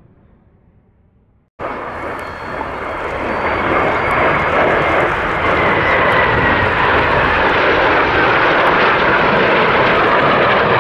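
After a faint fading tail, the sound cuts in abruptly about a second and a half in to a BAC Strikemaster's Rolls-Royce Viper turbojet: loud rushing jet noise that builds over the next few seconds and then holds steady, with a faint high whine sliding slightly down in pitch.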